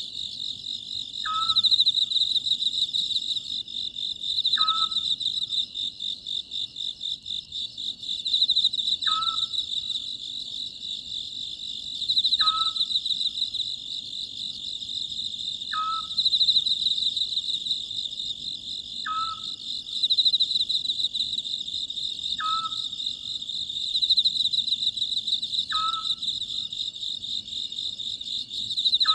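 Oriental scops owl giving its short call, repeated about every three to four seconds, over a steady high chorus of chirring insects.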